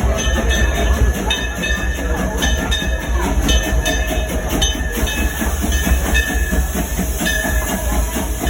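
Steam-hauled tourist train rolling along the track: a steady low rumble with wheels clacking over the rail joints in a repeating rhythm.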